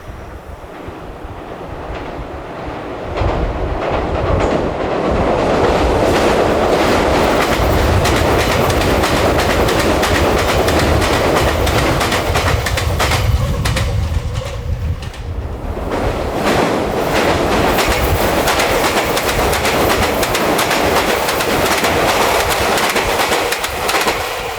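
A train passing close by, its wheels clacking rhythmically over the rail joints. It builds up about three seconds in and runs on loud, easing briefly in the middle.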